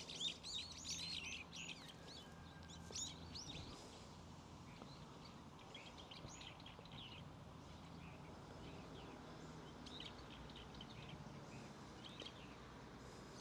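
Small birds chirping and singing, a quick run of calls in the first few seconds, then scattered chirps, over a faint steady outdoor background.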